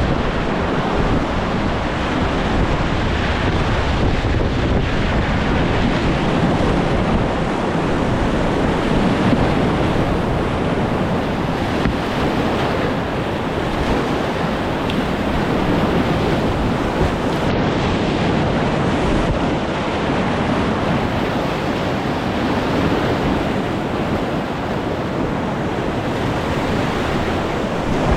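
Steady rushing of whitewater river rapids, an even wash of water noise with no break.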